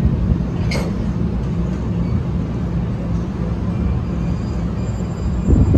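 Commuter train pulling slowly out of the station: a steady low rumble and drone from the train, with a short sharp hiss about a second in and a louder low gust-like burst near the end.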